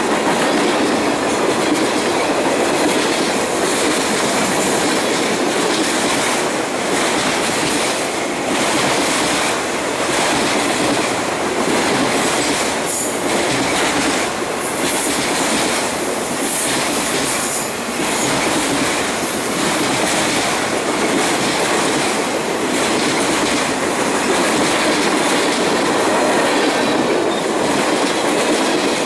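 Freight train cars, tank cars and autoracks, rolling past close by: a steady rumble of steel wheels on rail, broken by repeated clicks as the wheel sets cross the rail joints.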